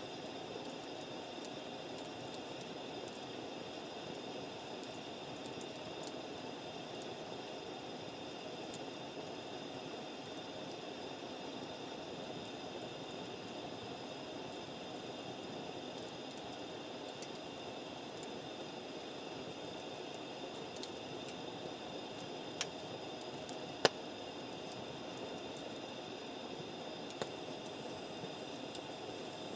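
Wood campfire burning with a steady hiss and a few sharp pops and crackles, the loudest about 24 seconds in.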